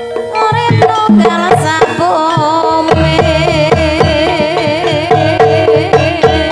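Javanese gamelan music in the Banyumas ebeg style: ringing metallophone tones with a wavering melody line over them, and deep hand-drum strokes that settle into a steady beat of about two to three a second partway through.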